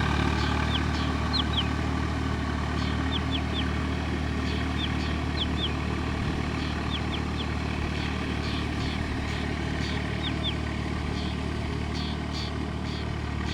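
A tractor's diesel engine running steadily at low revs, easing slightly quieter over the stretch, with short high chirps in pairs and threes over it.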